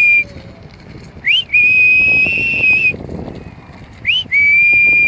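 Loud whistling used as a call: a quick rising chirp, then a long steady note held for about a second and a half. One note ends right at the start, and two more full calls follow.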